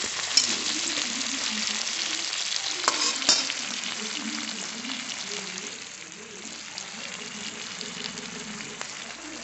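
Chopped onion, cabbage, tomato and curry leaves sizzling in hot oil in a metal kadhai, with a metal spatula scraping and clinking against the pan a few times in the first few seconds. The sizzle eases somewhat in the second half.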